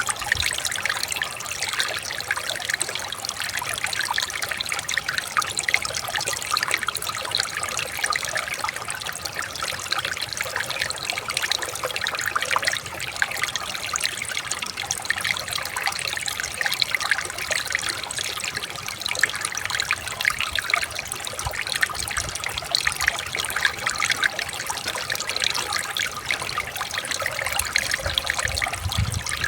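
Flowing river water trickling and babbling steadily. A low rumble comes in near the end.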